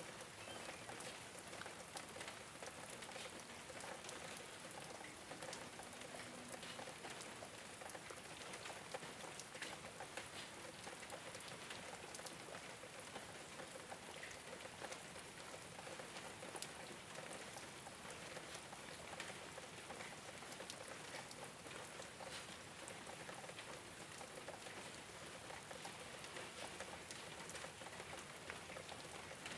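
Steady rain falling on a rooftop: an even hiss with many small drop ticks scattered through it.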